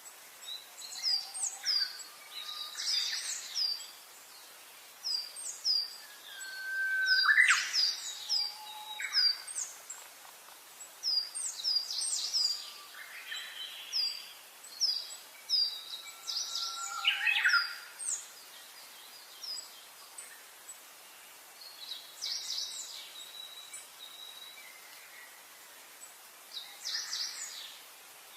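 Several songbirds singing and chirping, with short high chirps repeated in quick runs and a few louder phrases that include a lower whistled note, about seven seconds in and again around seventeen seconds in.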